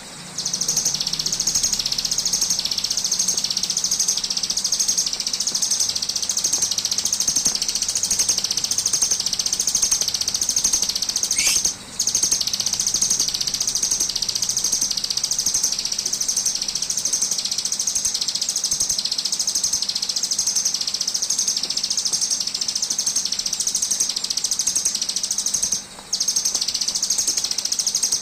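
Ciblek gunung (a mountain prinia) singing its 'brem' song: a continuous high, buzzing trill that swells and fades in even waves, bee-like. It breaks off briefly about twelve seconds in and again near the end, with a short rising note just before the first break.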